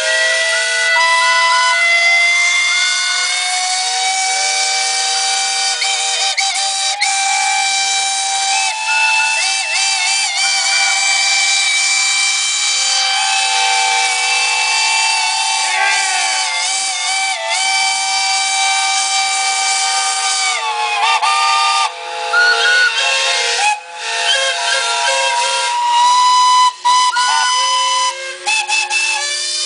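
Many steam traction engine whistles blowing together, a chord of steady tones at different pitches over a hiss of steam. Some whistles waver in pitch, and in the last few seconds they cut out and start again in turns.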